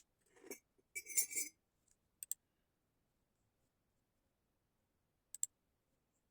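Two quick double clicks about three seconds apart, like a computer mouse double-clicking, with faint handling sounds in the first second and a half; otherwise near silence.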